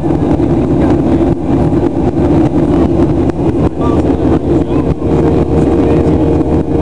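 Boeing 737-800 jet engines and airflow heard inside the cabin in the climb after takeoff: loud, steady engine noise with a low hum. A steady tone joins in about four seconds in.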